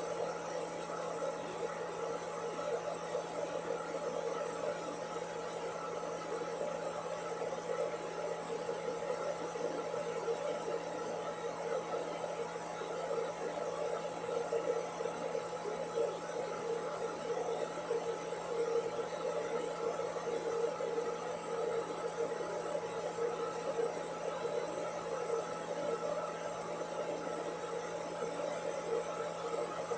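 Hair dryer running steadily: an even whir with a constant motor hum and no change in speed.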